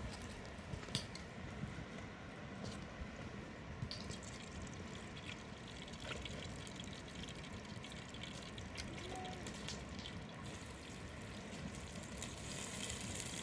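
Water trickling and splashing, with a few light clicks; a high hiss rises near the end.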